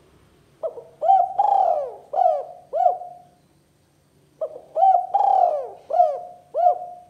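Spotted dove cooing: two phrases, each a run of about five arched coos, the second phrase starting about four seconds in.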